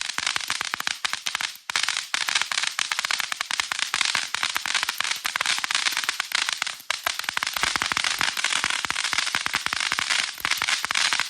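A consumer firework going off in a long, really loud run of rapid crackling pops, with a couple of brief lulls, stopping suddenly at the end.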